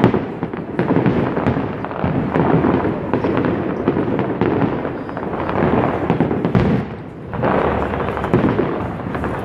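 Fireworks display heard from across a river: a continuous barrage of shells bursting, bangs overlapping with their echoes rumbling on, a brief lull about two thirds of the way through, then a denser volley.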